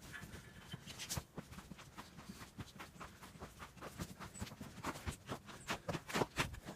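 Footsteps crunching through deep snow, a faint uneven run of crunches that grows louder and closer together about five seconds in.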